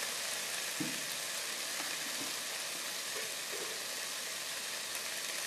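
Steamed flat beans frying in a little oil in a kadai over low heat, with a steady, even sizzle. A faint knock about a second in.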